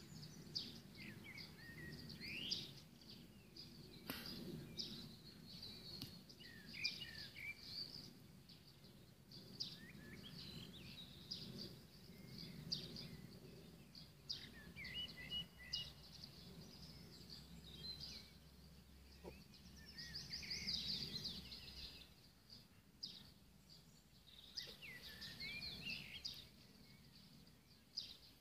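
Several wild birds singing and chirping, many short, quick, varied calls, over a faint low background rumble, with a single sharp click about four seconds in.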